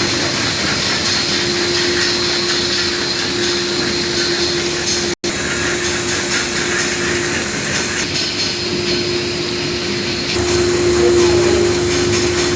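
Dishwasher-tablet pillow packing machine running: a steady mechanical whir with a constant hum, broken off for an instant about five seconds in.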